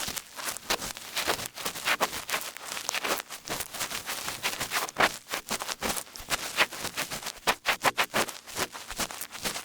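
Small ear pick scratching and scraping in short, rapid strokes, close up in an ASMR ear-picking session.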